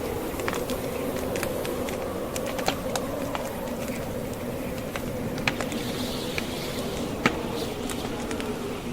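Wood fire crackling with irregular sharp pops, the loudest about two thirds of the way in, over the steady rushing wind of a snowstorm.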